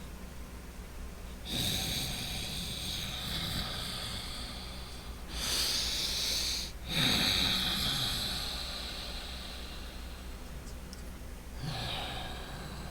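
Loud, deliberate breathing through the nose, drawn out slowly with a faint nasal whistle. There are long breaths with short pauses between them, and a louder, sharper breath about five seconds in.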